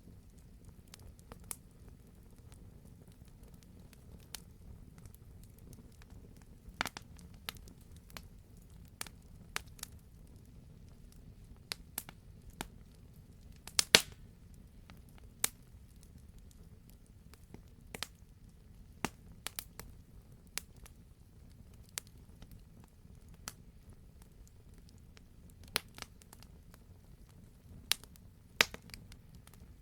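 Wood fire crackling in a fireplace: irregular sharp pops and snaps over a low steady hiss, with the loudest pop about halfway through.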